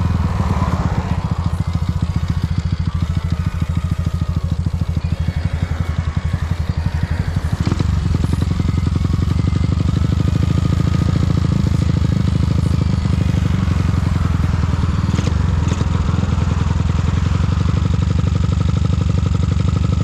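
Honda CG Titan 150 motorcycle's modified single-cylinder engine running as the bike is ridden, a fast, even pulsing. It eases off slightly a second or so in and pulls steadily again from about seven seconds.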